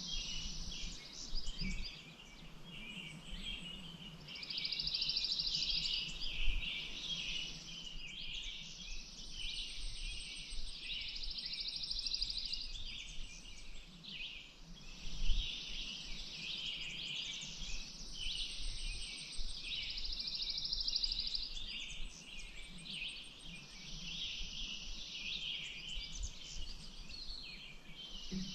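Many small birds chirping and singing at once in a dense chorus. A high buzzy trill lasting two to three seconds comes and goes four times.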